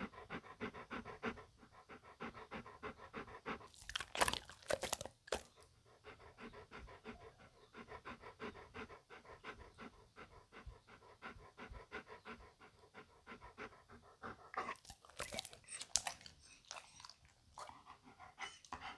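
A Beauceron panting with its mouth open, in fast, even breaths. There are louder, noisy bursts about four seconds in and again near fifteen seconds.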